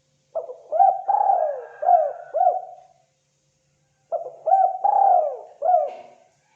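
Spotted dove (tekukur) cooing: two phrases of four or five low, arched coo notes each, with one longer note in the middle of each phrase, a second or so apart.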